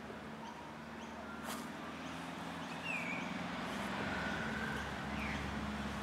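Outdoor background with a few short whistled bird calls in the second half, one falling and one held, over a low steady hum. A single light click comes about a second and a half in.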